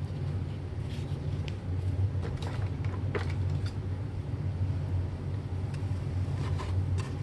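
Steady low hum with scattered faint clicks and knocks of things being handled.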